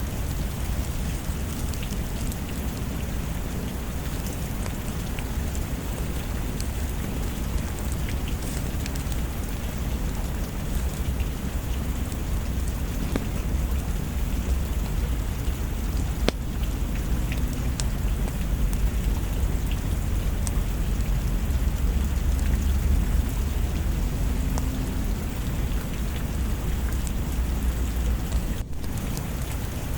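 Steady rain with a low rumble of thunder that swells in the middle, and scattered sharp ticks over the hiss.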